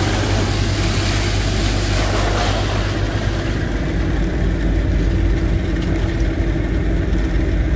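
Engine driving a sand boat's sand pump, running steadily under load with a low, even drone. A rushing hiss over it eases off about three seconds in.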